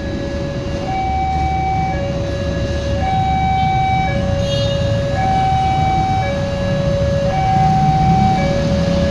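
Railway level-crossing warning alarm sounding a steady two-tone hi-lo signal, each tone held about a second, over a low rumble.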